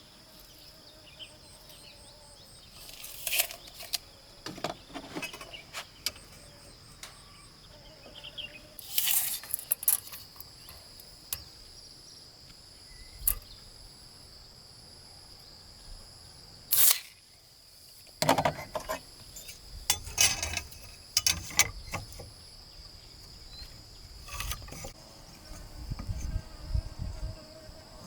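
Steady high-pitched chirring of crickets, with scattered sharp knocks and clatters of wood and tools being handled.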